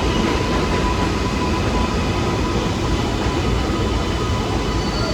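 New York City subway train running through the station, a loud steady rumble with a faint whine that fades out about two seconds in.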